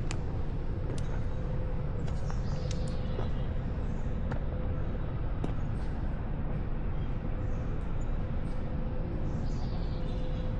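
Outdoor ambience: a steady low rumble with a faint constant hum, and small birds chirping briefly now and then above it, with a few light clicks.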